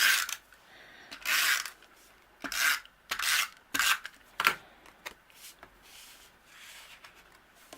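Cardstock being handled at a craft table: about five short rubbing, sliding strokes of paper in the first few seconds, then a few faint light ticks.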